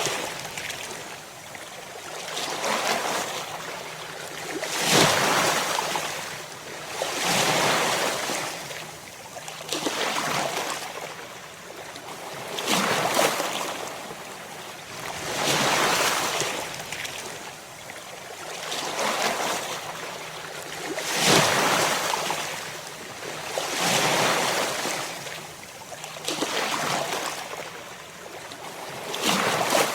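Ocean waves breaking, each wave a surge of surf that swells and then washes away, about every two and a half to three seconds.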